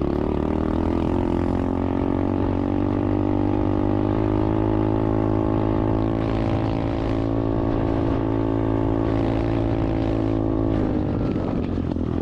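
SSR 125 dirt bike's single-cylinder four-stroke engine running steadily under way, its pitch easing down a little near the end.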